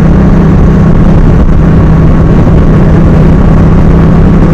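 Motorcycle riding at a steady speed: the engine holds a constant note under a loud, steady rush of noise.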